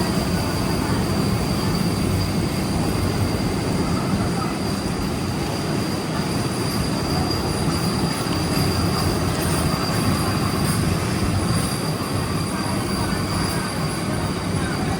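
A train running on the rails, a steady dense rumble of wheels and coaches with a high, thin wheel squeal held throughout. Fainter, higher squeals join about six seconds in.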